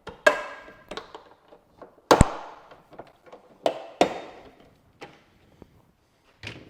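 Plastic retaining clips of a Ford Bronco tailgate's interior trim panel snapping loose as the panel is pried and pulled off: a series of sharp snaps and clacks, the loudest about two seconds in.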